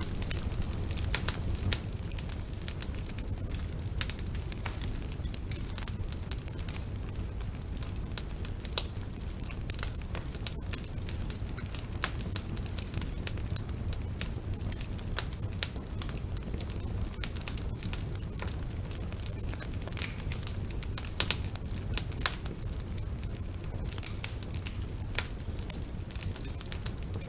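Wood fire burning in a fireplace: a steady low rumble of flames with irregular sharp crackles and pops, several a second, a few of them louder.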